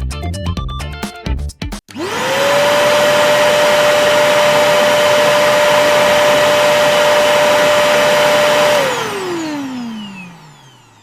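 Vacuum cleaner switched on: its motor whine rises quickly to a steady pitch over a loud rush of air, runs for about seven seconds, then is switched off and the whine falls steadily as the motor spins down.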